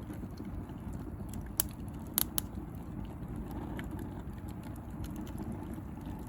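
Bonfire of dry branches and bamboo crackling steadily over a low rumble, with a few sharp pops about one and a half and two seconds in.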